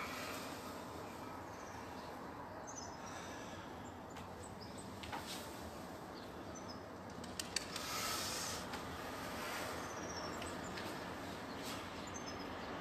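Steady outdoor background hum with faint, short, high bird chirps now and then. Two sharp clicks come about seven and a half seconds in.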